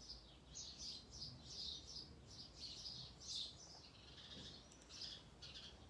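Faint birdsong: small birds chirping and twittering, a run of short high calls repeating.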